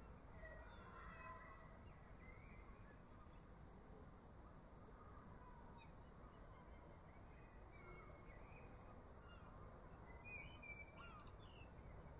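Faint scattered bird calls over a low, steady background rumble.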